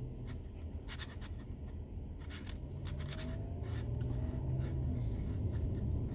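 Steady low rumble of a vehicle on the move, with scattered light clicks and scratchy rattles over it.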